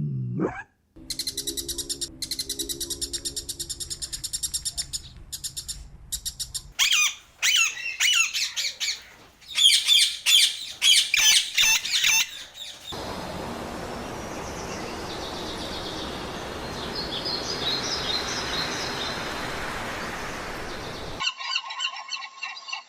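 Birds chirping and calling in a run of separate clips that change abruptly: rapid high chatter, then sharp chirps, then fainter chirps over a steady hiss. Goose-like honking begins near the end.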